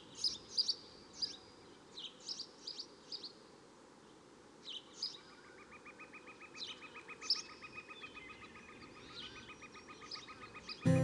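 Short, high bird chirps scattered irregularly over a steady low background hiss. From about halfway, a rapid, even pulsing trill joins in beneath them.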